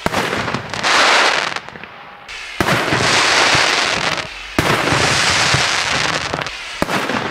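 Fireworks going off overhead: sharp bursts, each followed by a long stretch of dense crackling from crackle-effect stars, in three waves that begin suddenly, with a single sharp crack near the end.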